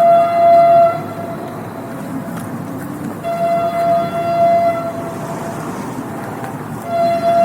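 Train horn sounding on one steady note in three blasts: one ending about a second in, a longer one in the middle, and a third starting near the end, over the continuous rumble of the passing train.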